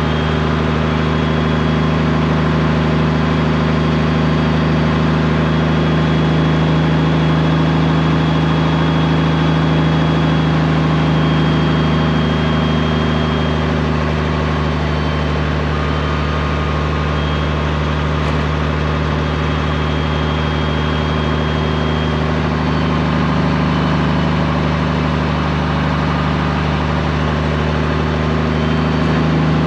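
Straight-piped Peterbilt 389's diesel engine running steadily at a constant speed, one unchanging low drone.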